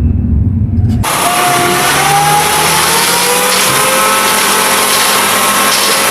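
Motor vehicle engine revving up, its pitch rising slowly and steadily. It starts suddenly about a second in.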